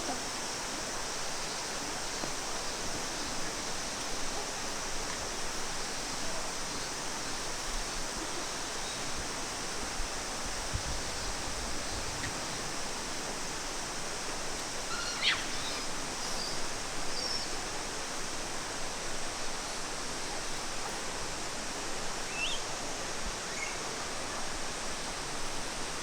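Steady rush of flowing water, even and unbroken, with a few brief high calls over it about halfway through and again near the end.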